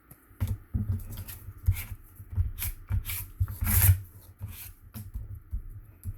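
Cardstock being folded and rubbed down by hand, irregular scraping and rustling with soft knocks, starting about half a second in.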